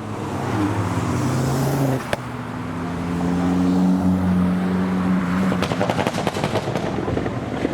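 Engines of modified cars driving past in a convoy, running steadily, then a rapid run of exhaust pops and crackles for about two seconds near the end.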